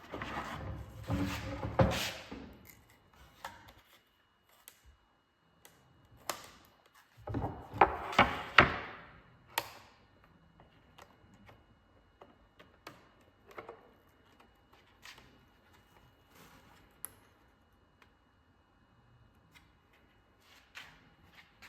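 Workshop handling noises: two short bursts of rustling and clattering, near the start and about a third of the way in, then scattered light clicks and taps.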